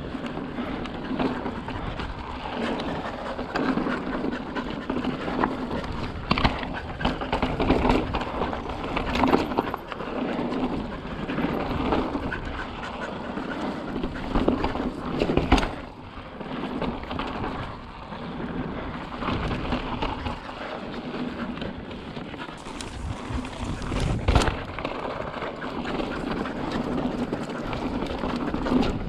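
Mountain bike riding over slickrock: steady tyre and wind noise, broken by frequent knocks and rattles from the bike over bumps in the rock.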